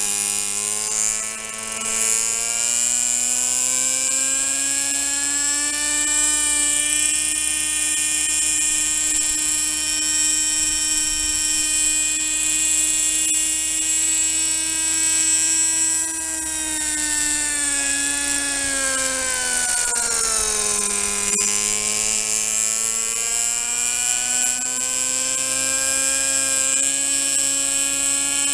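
Two-stroke O.S. 32FH glow engine of a Kalt model helicopter running at high speed with a whining, buzzing note. Its speed climbs over the first few seconds and holds, drops off sharply about twenty seconds in, then builds back up.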